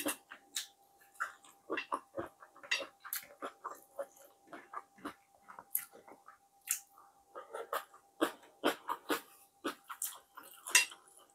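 Close-up eating sounds: irregular wet lip smacks and chewing of fried tilapia, eaten by hand, with fingers picking at the food on the plate. A faint steady high hum runs underneath.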